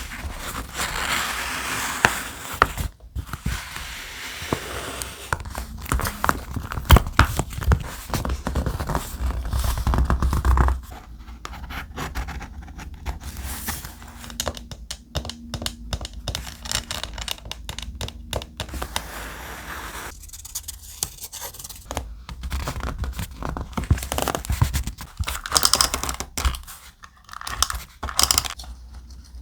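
Thick paper being handled close to the microphone for a scrapbook page, a dense run of rustling and scraping with many sharp clicks. It is fuller and louder for the first ten seconds or so, then thinner and quieter.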